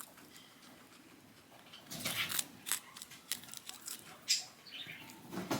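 Guinea pig moving about in its cage: light scattered rustles and clicks, starting about two seconds in.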